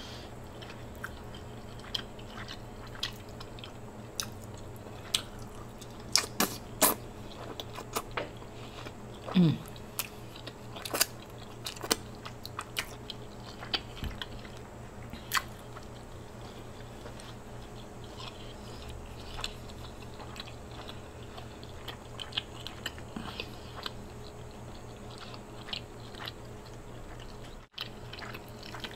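Close-miked eating of a seafood boil: chewing and biting on shrimp, with many scattered sharp wet clicks and smacks over a steady low hum.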